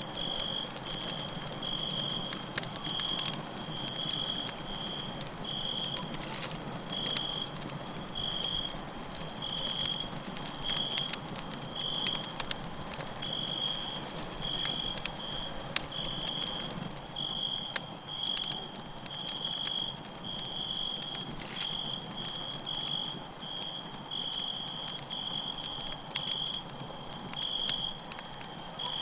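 Campfire crackling and popping with many sharp snaps over a steady hiss, while a cricket chirps in short high pulses about once or twice a second.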